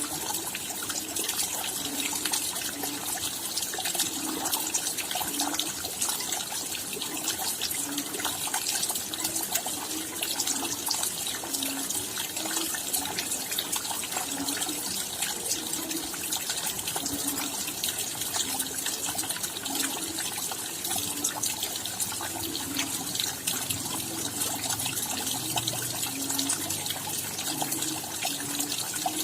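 Steady rainfall: a dense, even patter of many raindrops. A soft, lower-pitched drip-like sound recurs about once a second.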